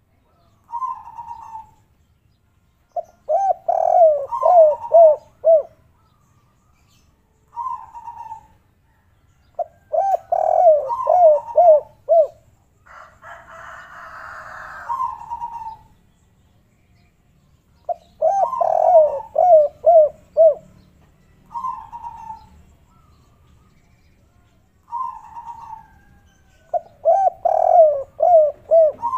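Spotted doves (derkuku, the 'kuk 3' call type) cooing: four phrases of quick falling notes, about eight seconds apart, with single short coos in between. Near the middle there is a hiss of about two seconds.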